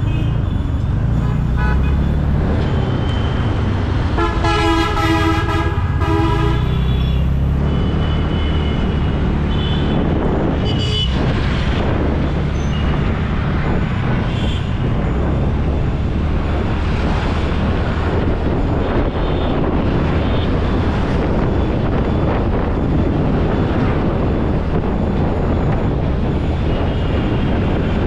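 Road traffic heard while riding: a steady low rumble of vehicles and wind, with a vehicle horn held for about two seconds around four seconds in and a brief honk near eleven seconds.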